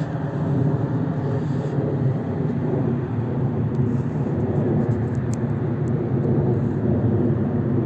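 Jet noise from a Boeing 737-800's CFM56-7B turbofan engines as the airliner climbs after take-off, a steady rumble that holds level throughout.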